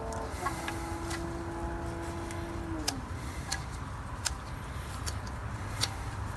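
Scattered light metallic clicks and taps from hand work on an engine, over a low background rumble. A steady humming tone holds for about three seconds, then slides down in pitch and stops.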